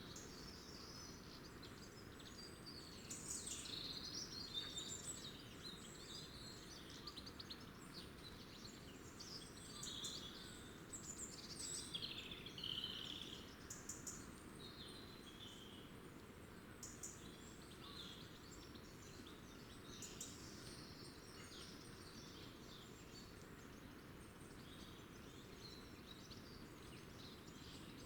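Birds chirping and calling, many short high notes, busiest in the first half, over a faint steady background noise.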